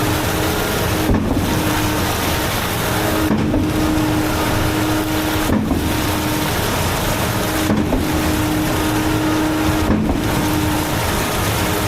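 High-pressure water spray from a water truck blasting a concrete pump, over running engine noise. The steady drone under the spray dips briefly about every two seconds.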